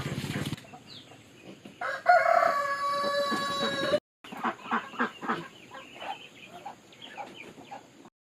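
A rooster crowing once, a long pitched call starting about two seconds in, followed by chickens clucking in short, irregular calls. A low pulsing drone cuts off about half a second in.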